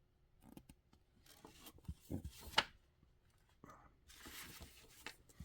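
Paper being handled and magazine pages turned: short rustles and crinkles with a few sharp clicks, the loudest click about two and a half seconds in.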